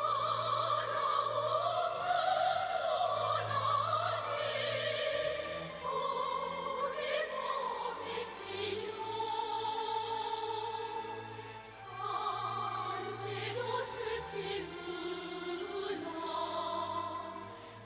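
A woman sings in an operatic style over orchestral accompaniment: long, slow held notes with a wavering vibrato.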